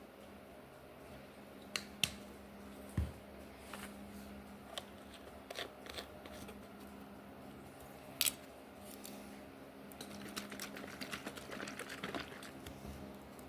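Scattered sharp clicks and light knocks of objects being handled, then a quick run of small clicks and rustles in the last few seconds, over a faint steady hum.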